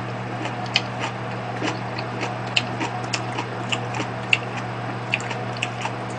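Close-miked chewing of a mouthful of gimbap: soft wet mouth clicks and smacks at an irregular pace, a few a second, over a steady low hum.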